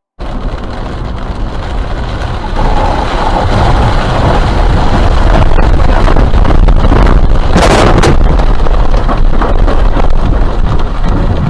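Loud, steady roar of a vehicle's road and wind noise, with a brief louder rush about eight seconds in.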